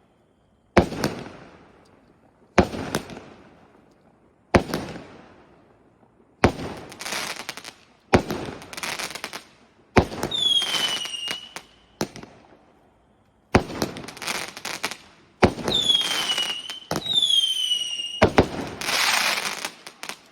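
A 36-shot 0.8-inch firework cake (torta) firing shot after shot, about one every two seconds. Each shot is a sharp bang followed by a hissing tail of a second or two, and a few carry a short falling whistle.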